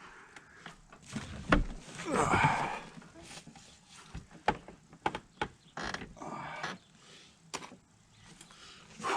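Hands and tools working on a snowmobile engine: scattered clicks and knocks, with a few short rustling or scraping stretches.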